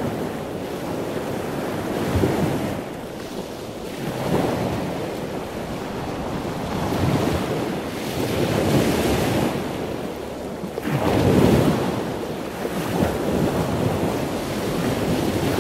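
Ocean surf: a steady rushing of waves that swells and eases every couple of seconds.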